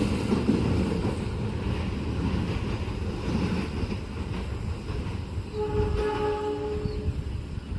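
Rumble and clatter of a train passing a level crossing. A single steady horn blast of about a second and a half comes near the end.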